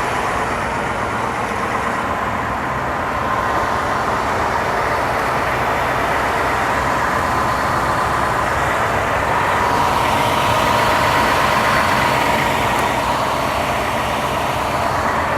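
2018 Ford F150 King Ranch pickup engine idling steadily, heard from outside the truck.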